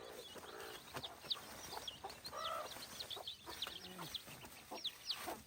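Young chickens peeping over and over in many short, high calls, with a lower cluck about halfway through.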